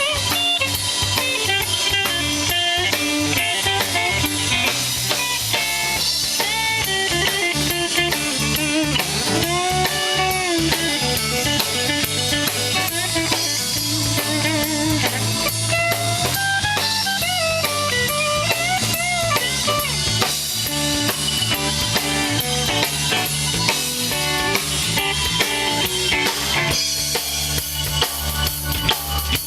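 Live band playing an instrumental passage: drum kit keeping a steady beat under guitar and bass, with bending guitar lead lines.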